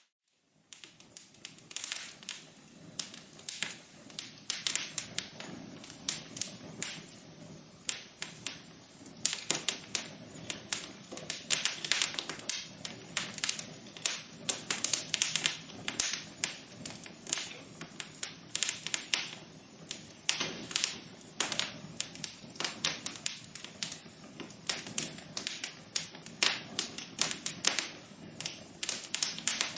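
Wood fire crackling in a fireplace: dense, irregular pops and snaps over a soft low rush of burning, starting after a brief silence at the very beginning.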